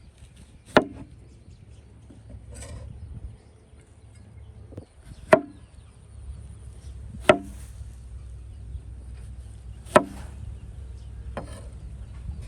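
Knife chopping on a wooden cutting board: four sharp, separate chops a few seconds apart, with a couple of lighter knocks between them.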